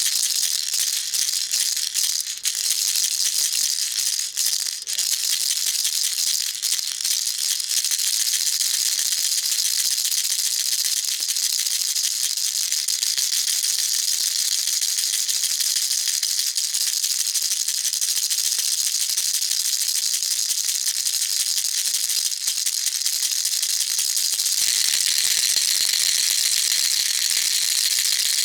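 Baby rattle shaken continuously, its beads making a dense, high, hissing rattle. It falters briefly a few times in the first several seconds, then runs steadily, and changes to a slightly louder, fuller texture near the end.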